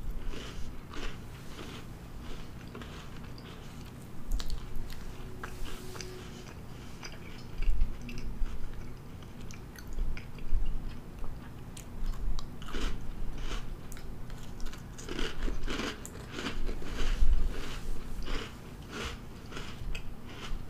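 Close-miked biting and chewing of a baked Pillsbury Cinnamon Toast Crunch cookie: irregular clusters of short crunches and wet mouth sounds, with a few louder bites.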